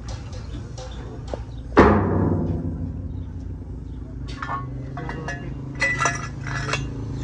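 A hard hammer blow on a metal truck fuel tank that rings on as it dies away, followed a few seconds later by a run of lighter metallic taps and clinks, over a steady low hum.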